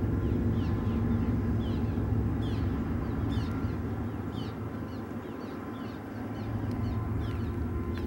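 Low rumble of a coal train fading into the distance, dropping off about halfway through, while a bird repeats short, high, falling chirps a few times a second.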